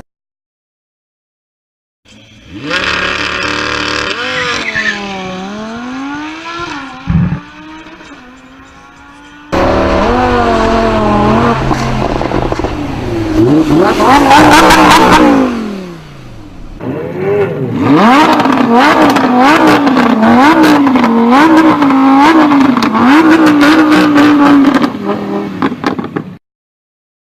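Car engines revving through their exhausts in three clips: first a rev that falls and climbs again, then a louder rev that climbs to a peak and drops away, then a string of quick blips about once a second. Each clip starts and stops abruptly, with silence before the first and after the last.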